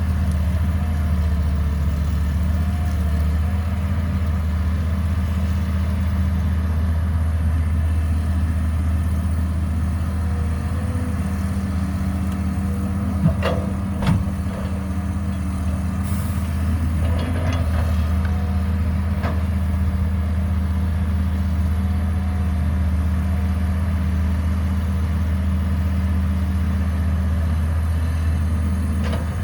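Caterpillar 312B excavator's diesel engine running steadily, with two short knocks about halfway through.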